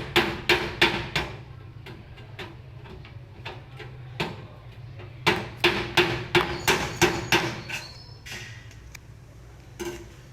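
Hammer blows on a tin oil can, about three a second, each with a short metallic ring. A run of blows opens, then a pause of scattered single knocks, then a second longer run about five seconds in.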